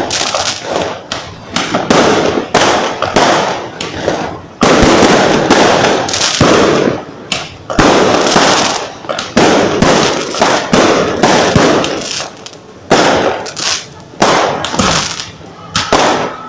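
Fireworks going off in quick succession: dense, overlapping loud bangs and crackling several times a second, with a couple of brief lulls.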